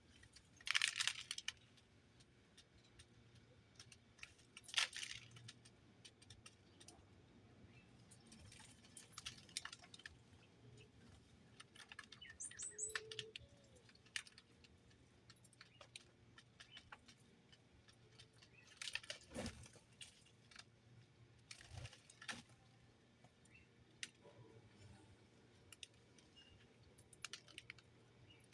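Small birds moving and pecking: scattered faint clicks, taps and rustles, loudest about a second in and again near five seconds, with a brief high chirp about halfway through.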